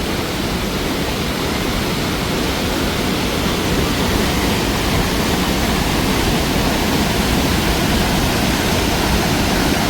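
Rushing water of a mountain river, a steady, loud, even roar.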